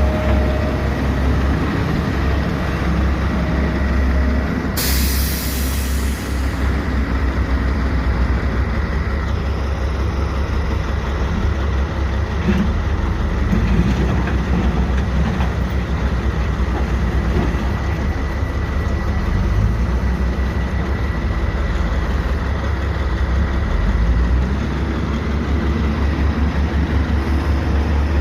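Backhoe's diesel engine running steadily with a deep rumble while it works rock. About five seconds in there is a short burst of loud hissing.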